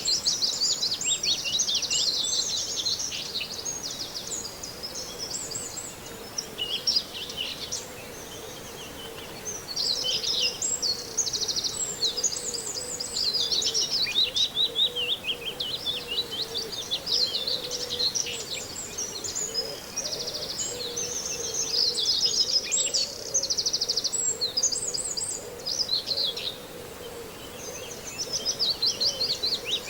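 Common whitethroat singing short, scratchy warbling phrases over and over in bursts of a few seconds, with other small birds' song mixed in.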